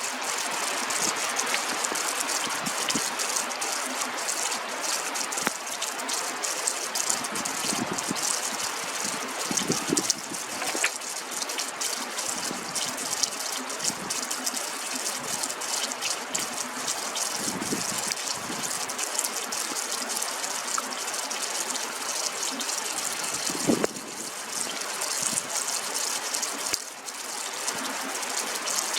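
Steady rush of water with fine pattering, broken by a few louder knocks, one near the end.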